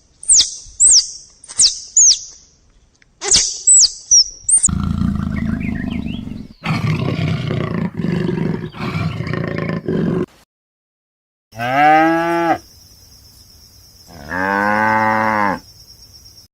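A run of different animal calls: about seven quick, high falling chirps, then several seconds of low, rough, roar-like calling in pulses, then two drawn-out pitched calls, the second one wavering, over a steady high whine.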